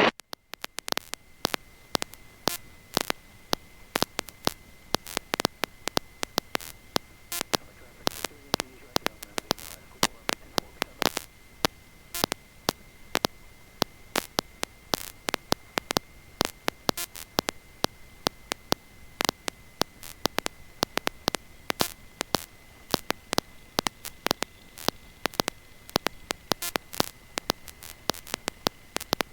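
Electrical static on an audio line: a faint steady hum with a thin high whine, broken by many irregular sharp clicks. The aircraft's engine sound cuts out suddenly just as it begins.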